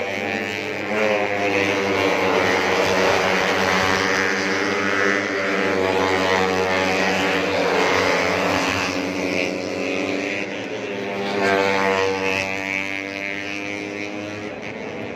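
Four-stroke 150cc underbone racing motorcycles running hard at high revs, several engine notes overlapping and rising and falling in pitch as they pass and shift, loudest about eight and eleven seconds in.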